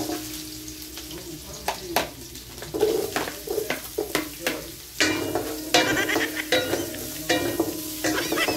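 Garlic, ginger and onion sizzling in hot oil in a nonstick wok while a spatula stirs them, with repeated scrapes and clicks of the spatula against the pan. This is the sauté stage, the aromatics frying toward golden brown.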